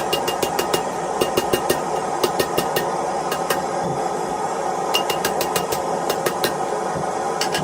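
Hammer blows on an anvil while forging steel, coming in quick runs of about four or five strikes a second with short pauses between them. Each blow rings with the same metallic ping, over a steady roar underneath.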